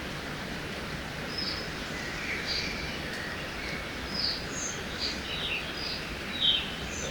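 Songbirds chirping in short, scattered calls over a steady rush of river water; one call about six and a half seconds in is the loudest.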